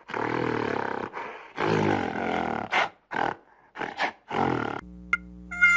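Gorilla roaring and grunting in a series of rough, harsh calls, the last few shorter and sharper. Light plucked music starts near the end.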